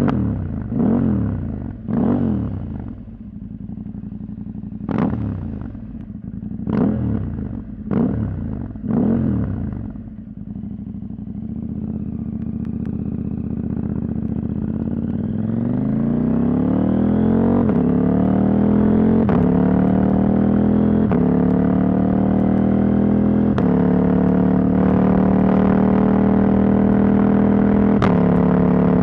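Husqvarna Norden 901's parallel-twin engine with its catalytic converter removed. It gives a string of short throttle blips for the first ten seconds, then accelerates with a rising note and settles into a steady, loud run, with a few brief dips that sound like gear changes.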